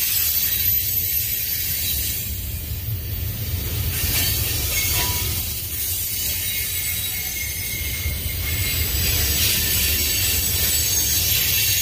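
Freight cars of a Union Pacific manifest train rolling past at close range: covered hoppers and then boxcars. Their steel wheels on the rail make a steady low rumble with a higher hiss over it.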